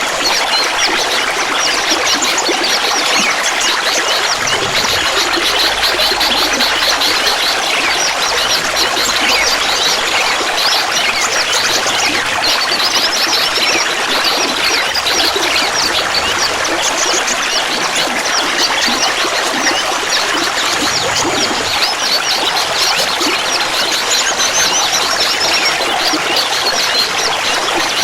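Clear water trickling and gurgling steadily, with many small, quick splashes.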